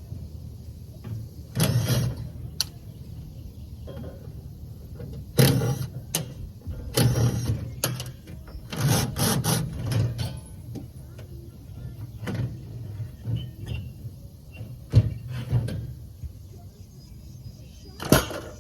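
Irregular clanks, scrapes and ratcheting of hand tools at work on a large air-conditioning unit being stripped for scrap, a burst every few seconds.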